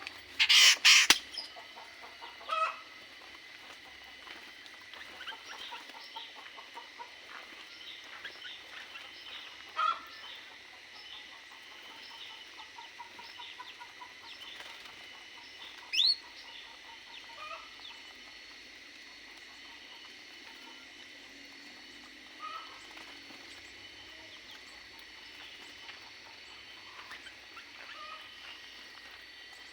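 Domestic chickens in an aviary, with a sudden burst of wing flapping about a second in, then scattered clucks and short calls, one a quick rising call about halfway through. A faint steady high whine runs underneath.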